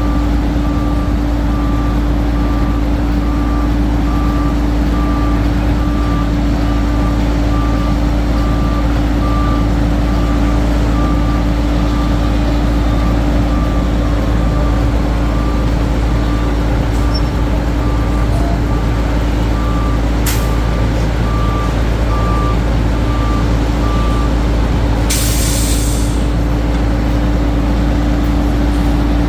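Heavy diesel truck running steadily at a concrete pour, its backup alarm beeping at an even pace until about 24 seconds in. About a second after the beeping stops, there is a short hiss of air brakes.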